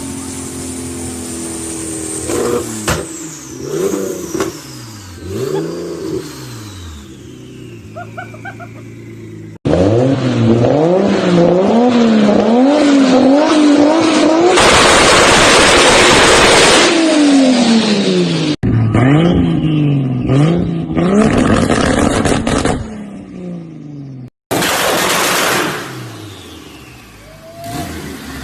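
Car engines revved hard again and again in a run of short clips, the engine note climbing and dropping with each blip of the throttle. The exhausts pop and crackle, and there is a loud burst of noise about halfway through.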